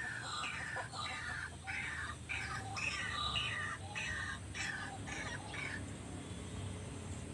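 White-breasted waterhens calling: a run of repeated calls, about two a second, that stops about six seconds in.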